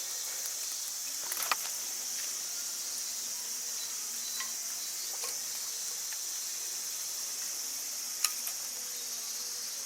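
Steady high insect chirring, like crickets, with a few sharp pops and crackles from a wood campfire, the loudest about a second and a half in and again near the end.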